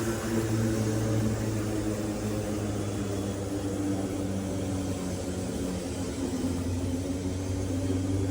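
LawnMaster CLMF4815E brushless cordless lawn mower running with a steady motor hum.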